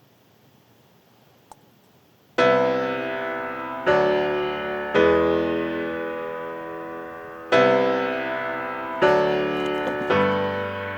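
Near silence with a faint click, then from about two seconds in, slow piano music: six chords, each struck and left to die away.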